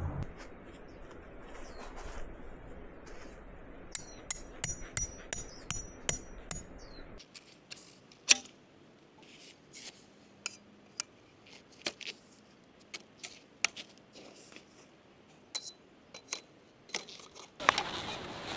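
Scattered light clicks and knocks of small objects being handled, with a quick run of ringing metallic clinks between about four and seven seconds in.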